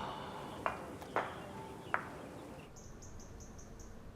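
Three light clinks of dishes or cups being set down in the first two seconds. After that comes faint, high chirping from outdoor wildlife, a quick regular series of about five chirps a second.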